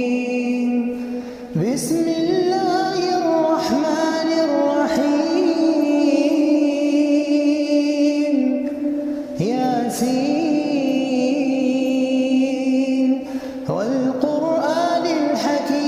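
A solo voice chanting in the melodic style of Quranic recitation, holding long ornamented notes that glide up and down in pitch, with short pauses for breath about 1.5, 9.5 and 13.5 seconds in.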